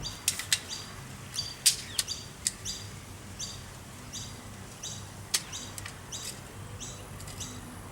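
A small bird chirping over and over in short high chirps, about one or two a second. A few sharp clicks stand out among them, the loudest about two seconds in and again after five seconds.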